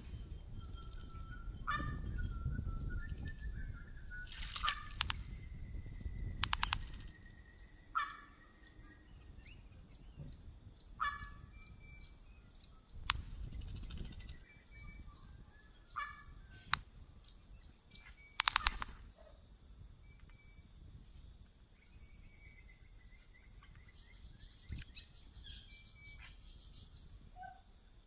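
Birds calling: a busy background of high, quick chirps, broken by several loud, harsh calls, and from about two-thirds of the way through a long run of fast trilled notes. A low rumble sits underneath during the first few seconds.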